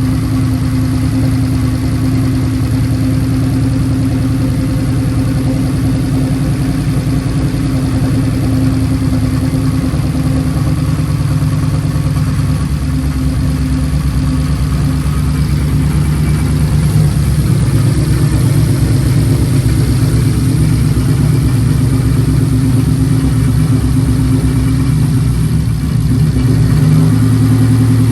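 Single-turbo Ford F150's 5.0-litre V8 idling steadily on its first start after the turbo build. It gets a little louder about 17 seconds in and again near the end.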